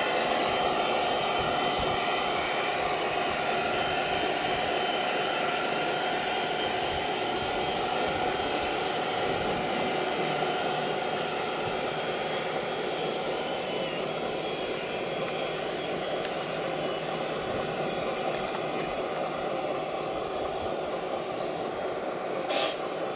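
Electric motors and gearboxes of radio-controlled model construction vehicles whining steadily, with a short click near the end.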